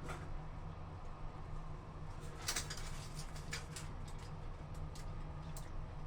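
Wet laundry being trodden underfoot: a few soft squelches and clicks over a steady low hum, the busiest stretch about halfway through.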